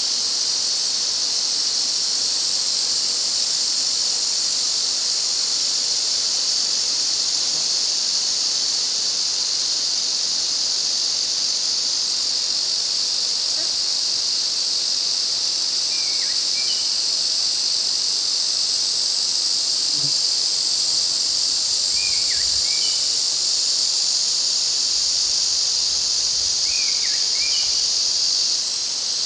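Dense chorus of Ezo cicadas (Lyristes japonicus): a loud, steady, unbroken high buzzing. A few faint short chirps sound over it in the second half.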